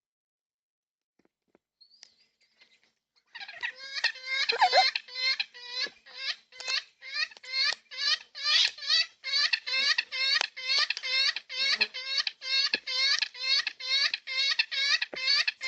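A bird calling over and over, starting about three seconds in: a fast, even run of harsh, rasping calls, about two to three a second, without a break.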